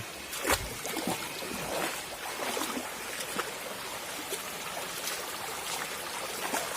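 River water flowing and trickling, with scattered splashes and drips. A louder splash with a low thump comes about half a second in.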